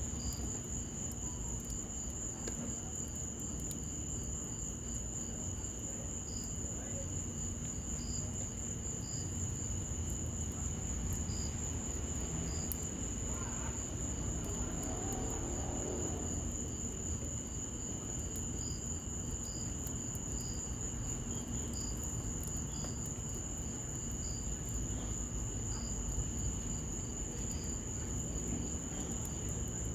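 Crickets trilling steadily at a high pitch, with another insect chirping in short repeated notes, over a steady hiss of rain and faint crackles from a wood fire.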